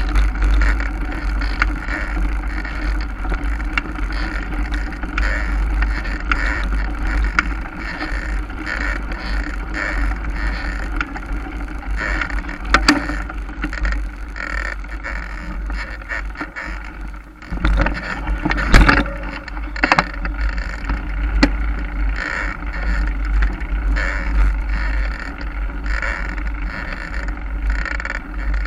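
Mountain bike ridden along a forest trail: steady wind rumble on the rider's camera microphone over tyre and drivetrain rattle, with a few sharp knocks from bumps, the loudest about two-thirds of the way through.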